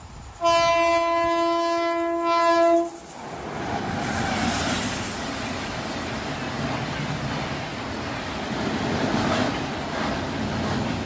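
Indian express locomotive sounding one long, steady horn blast for about two and a half seconds. The train then rushes past at high speed, with loud wheel and coach noise.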